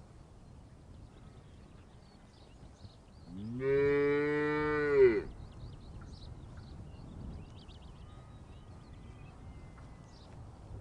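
A cow mooing once: a single long call of about two seconds that rises in pitch at its start and then holds, a few seconds in.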